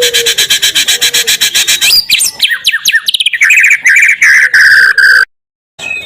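Recorded songbird song played as a lure track to provoke a caged white-rumped shama. It begins with a rapid buzzy trill of about ten pulses a second, then a run of quick falling whistles and a loud, high trill. It cuts off abruptly near the end and starts over, as a loop.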